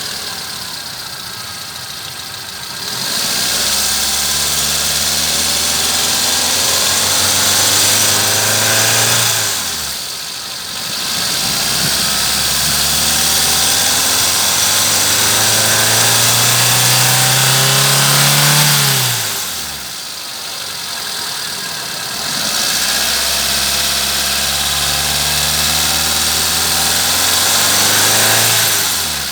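Hyundai i10 engine brought up three times: each time its note climbs slowly for several seconds, then drops quickly as the throttle comes off, with a lower, quieter spell between runs.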